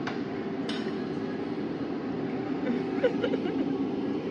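Steady background hubbub of a meal, with a couple of sharp clinks of dishes or cutlery near the start.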